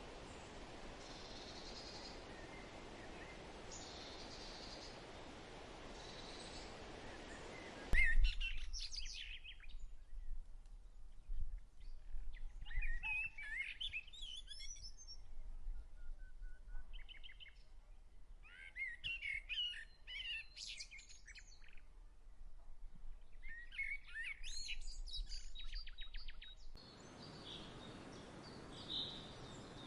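A steady outdoor hiss, which cuts off sharply about eight seconds in, giving way to small birds singing in short, varied chirping phrases with pauses between them. The hiss returns near the end.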